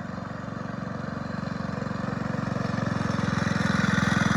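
Mini bike's 79cc Predator single-cylinder four-stroke engine running steadily, growing steadily louder as the bike comes closer.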